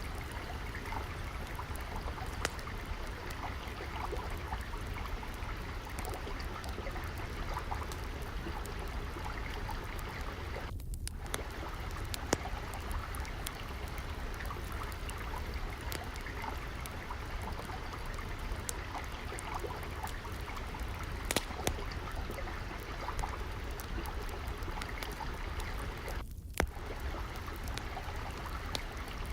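Water flowing and trickling steadily, with frequent small crackles and pops of a wood fire scattered through it.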